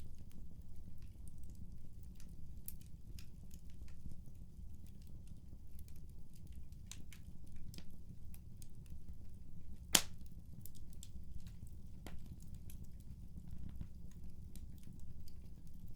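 Wood fire in a fireplace crackling: a low steady rumble with irregular sharp pops and snaps, one louder pop about ten seconds in.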